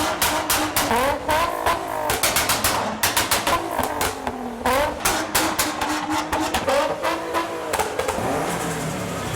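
A car engine being revved up and down several times, with a rapid, irregular run of sharp cracks over the revs.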